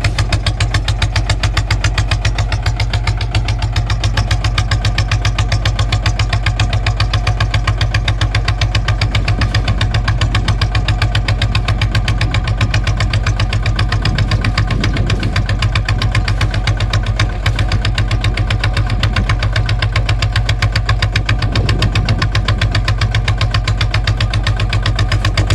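Kubota ZT155 walking tractor's single-cylinder diesel engine running steadily, with a rapid, even pulsing beat that holds constant throughout.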